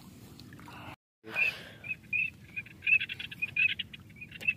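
A quick run of short, high chirping bird calls, several a second, starting just after a brief cut about a second in, over a low outdoor background.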